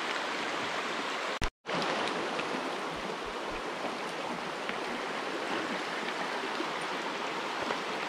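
Creek water flowing and rushing in a steady, even wash, broken by a brief dropout about a second and a half in.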